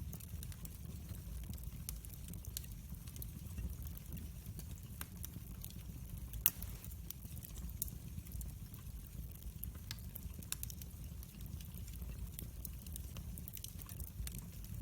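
Wood fire burning in a fireplace: a steady low rumble with scattered crackles and one sharper pop about six and a half seconds in.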